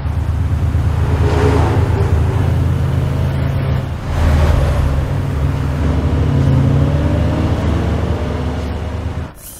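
Lamborghini Huracán V10 engine running loud as the car drives past at speed. It revs up in two rising swells, about a second in and again about four seconds in, and the sound cuts off just before the end.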